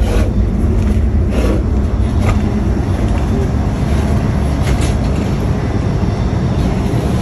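Steady low rumble of a Haramain high-speed train running, heard inside the vestibule by the gangway between cars, with a few faint knocks.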